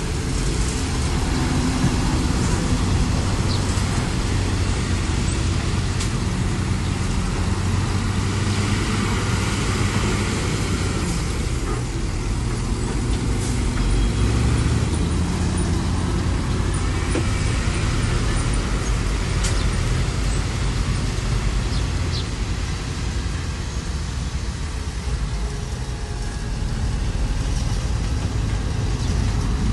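Diesel engine of heavy earthmoving machinery running steadily under load, its low note swelling a little partway through and easing briefly near the end.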